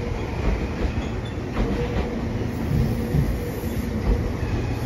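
Meitetsu 3500-series electric train pulling into the platform, its cars rolling past with a steady rumble and a few clacks of the wheels over rail joints.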